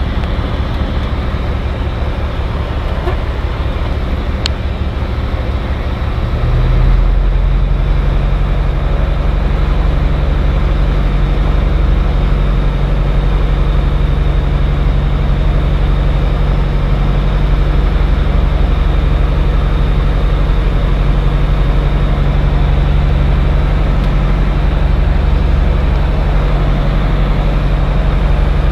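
Cirrus SR20's piston aircraft engine and propeller heard from the cockpit, running steadily. About six seconds in, the engine note rises and gets louder as power is increased, then holds steady at the higher power.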